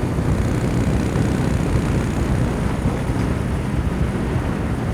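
Kawasaki W800's air-cooled parallel-twin engine pulling steadily at low revs in a high gear after short-shifting, lugged under heavy throttle, with a deep, even exhaust note.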